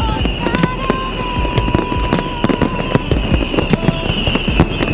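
Fireworks display: a dense run of bangs and crackling bursts in quick succession.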